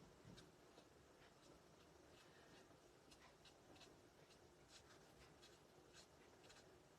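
Faint scratching of an alcohol-ink marker tip colouring on cardstock, in quick, uneven strokes.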